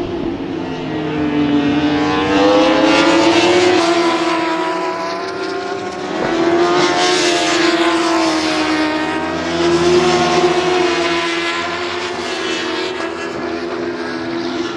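Superbike racing motorcycles running at high revs on the track, several engines overlapping, their pitch rising and falling. The sound swells three times as bikes come past.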